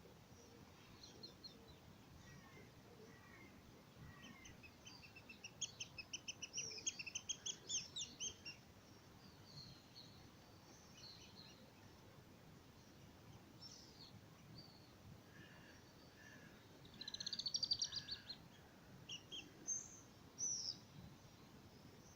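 Songbirds singing: a fast series of sharp, high notes about five seconds in, a rapid trill about three-quarters of the way through, and scattered single chirps between, over a faint background hiss.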